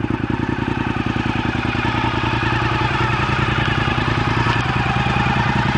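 Honda RC51's 1000 cc V-twin, fitted with a Sato full racing exhaust, idling steadily with an even, lumpy pulse.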